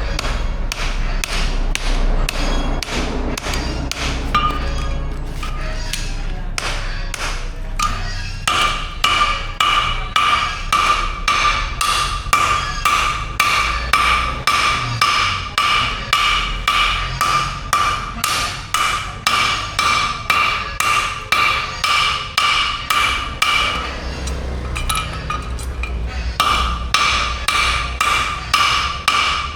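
Steady hammer blows on steel at the anvil, about two strikes a second. From about a third of the way in, each strike rings with a clear metallic tone, with a short break in the ringing a little over three-quarters of the way through. A low hum runs under the strikes at the start and near the end.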